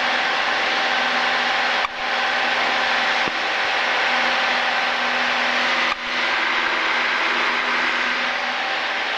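Piston engine of a single-engine light training aircraft running steadily at climb power, heard as a loud, even drone in the cockpit. The sound dips briefly twice, about 2 and 6 seconds in.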